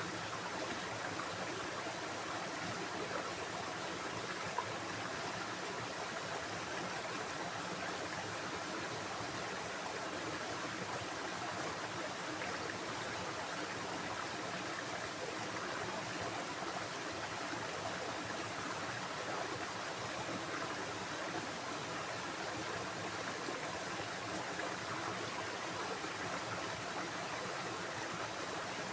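Stream water running steadily, an even rushing sound without let-up.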